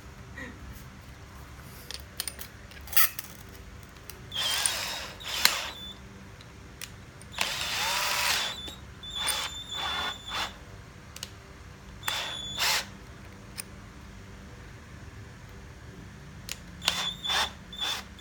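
DeWALT DCD700 cordless drill run in a series of short trigger bursts, about six, the longest about a second, each with a high motor whine.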